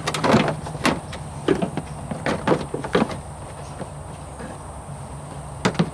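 Plastic air intake housing on a Dodge Ram being pulled loose by hand: a series of irregular clicks and clunks, with a steady low hum beneath.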